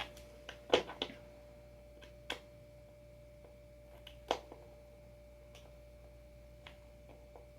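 A few scattered clicks and knocks of hand tools and board hardware being handled, the loudest about a second in and another about four seconds in, over a faint steady hum.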